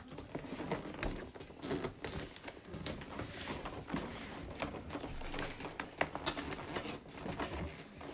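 Box packaging being handled and pried open: irregular scraping, tapping and crinkling, with a string of sharp clicks.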